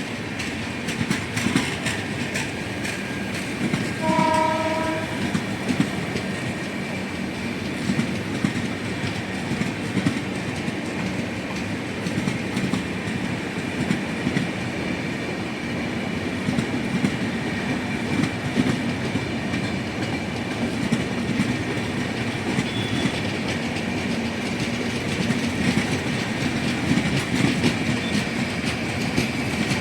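Train running at speed, its wheels clattering steadily over rail joints, with one short train-horn blast about four seconds in.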